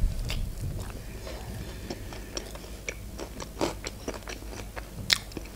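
A bite into a McDonald's chicken nugget, then chewing with small crunches and mouth clicks, a sharper click about five seconds in.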